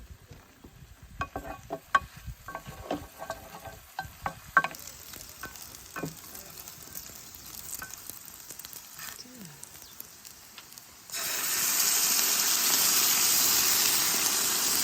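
Light clinks and taps of cooking utensils, then a sudden loud, steady sizzling hiss of food frying in a hot pan from about eleven seconds in.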